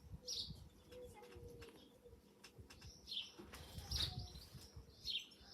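Small garden birds chirping now and then in short high calls, over faint low rumbling from wind or handling.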